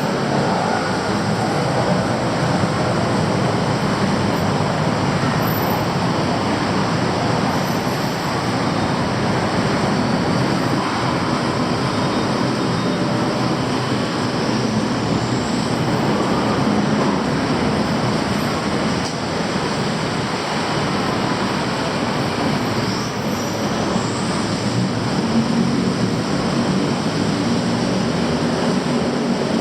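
Steady, loud vehicle noise: a dense, unbroken rumble of city traffic or rail transport.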